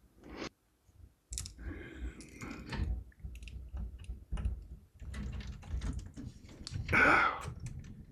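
Irregular small clicks, taps and rustling of hands working PC parts and cables inside a compact case, with a short voiced breath or grunt of effort about seven seconds in.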